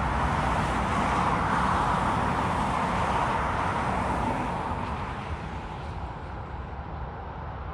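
Airbus A319's twin jet engines at takeoff thrust, a loud steady rumble with a hiss around the middle. It fades from about halfway through, losing its higher sounds as the airliner moves away.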